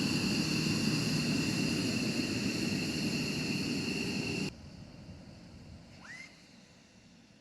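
Jet fighter engine running with a steady high whine over a low rumble, cut off abruptly about four and a half seconds in. Faint hiss follows, with one short rising whistle.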